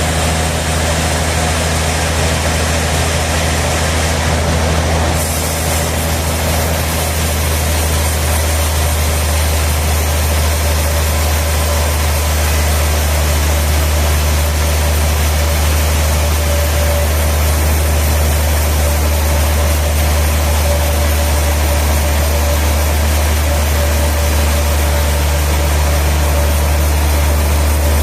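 Heavy sawmill machinery running steadily with a loud, constant low hum.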